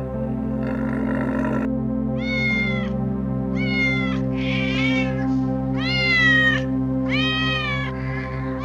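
An animal calling four times, each call rising and then falling in pitch, with shorter rasping calls between them and a raspy sound at the start, over steady background music.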